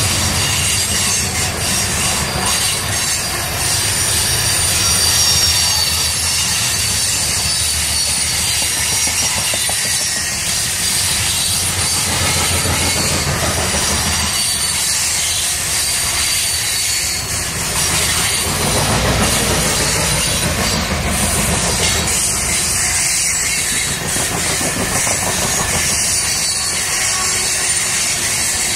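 Loaded grain train of covered hopper cars rolling past close by: a loud, steady rumble of steel wheels on the rails, with faint high-pitched wheel squeal that comes and goes.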